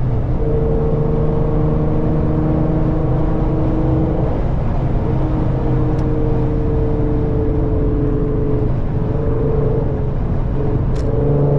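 Car engine and exhaust under load at highway speed, heard from inside the car: a steady drone whose pitch holds, then shifts a few times as the throttle and gears change. The driver calls it sounding good.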